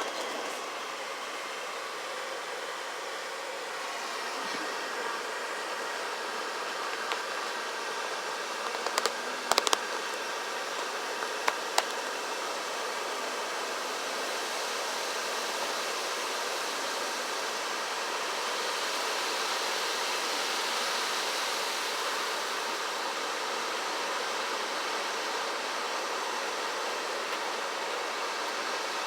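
Automatic car wash heard from inside the closed car: a steady rushing hiss, with a few sharp knocks about nine and twelve seconds in.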